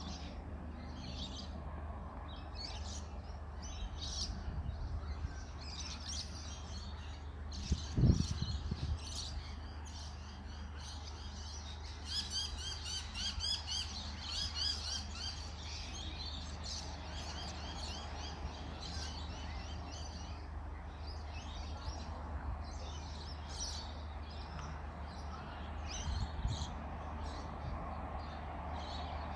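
Birds chirping and calling, with a fast repeated trill about twelve seconds in, over a faint steady low rumble. A single sharp thump about eight seconds in is the loudest sound, with a weaker one near the end.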